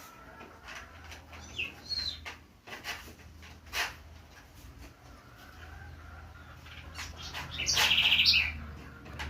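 Pet birds calling: a couple of short chirps, a few brief clicks, then a loud, fast trill near the end.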